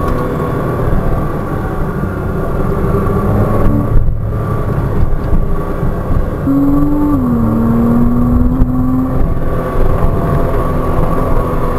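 Porsche Cayman 987.2's 2.9-litre flat-six heard from inside the cabin under hard driving, the revs rising and falling with throttle and braking, with a brief break in the sound about four seconds in. The overlay shows an upshift to third near the end.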